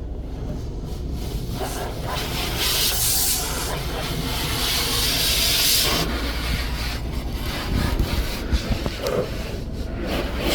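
Car wash heard from inside the car: a low rumble of machinery under water spray and brushes rubbing over the bodywork, with a loud hissing spray for a few seconds in the middle.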